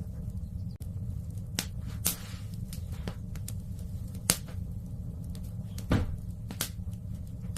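Wood fire burning in a fireplace: sharp crackles and pops from the logs, about one a second, over a low steady rumble.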